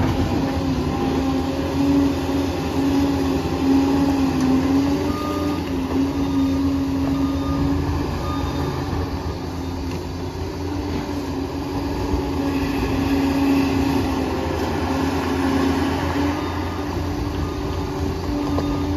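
Liebherr 746 crawler bulldozer at work: the diesel engine runs steadily under load with a steady whine and the clatter of its steel tracks.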